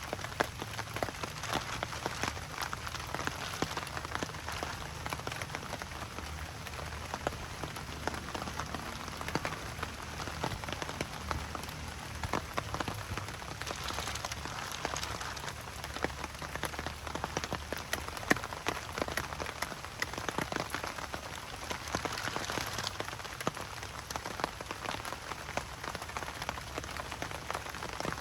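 Steady rain falling on a surface, with many individual drops pattering through a dense hiss and a faint low rumble underneath.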